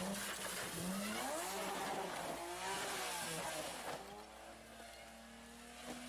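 Rally car engine revving, its pitch rising and falling repeatedly, then settling into a steadier, quieter note about four seconds in.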